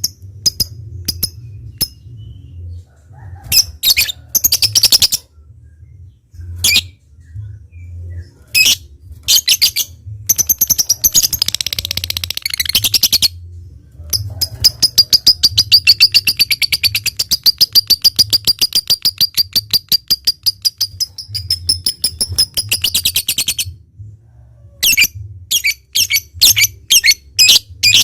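Lovebird calling: sharp spaced ticking notes and short bursts, then a long rapid chattering trill of about ten seconds in the middle (the 'ngekek panjang' of a lovebird in full song), and quick ticking again near the end.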